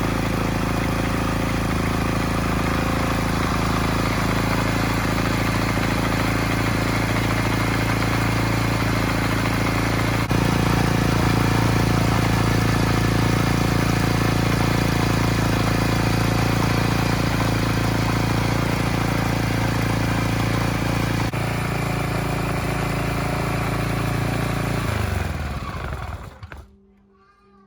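Small four-stroke petrol engine of an old agricultural machine running steadily, then shut off near the end, its speed falling away as it coasts to a stop.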